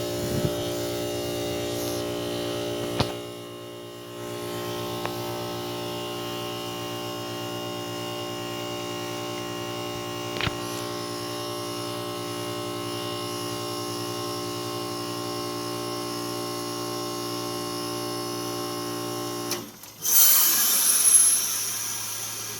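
1995 BDP heat pump outdoor unit running its defrost cycle: the compressor hums steadily, with a few sharp clicks. About twenty seconds in the unit shuts off abruptly, and a loud hiss follows and fades, refrigerant pressures equalizing as it stops.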